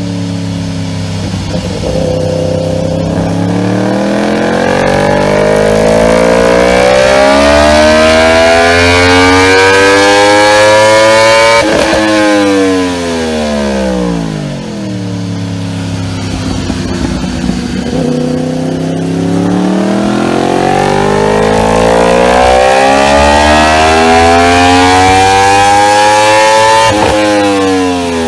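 Yamaha R1M's crossplane inline-four, through an Akrapovič exhaust, making two long pulls. Each time the pitch climbs steadily for about ten seconds without a gear change, then drops quickly as the throttle closes.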